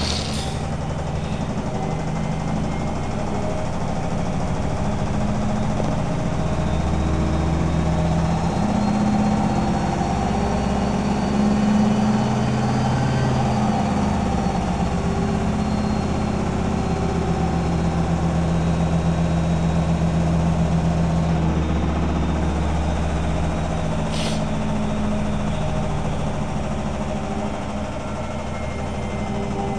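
Beko washing machine spinning its drum in service test mode: a steady motor hum with a faint high whine, and a single sharp click about three-quarters of the way through.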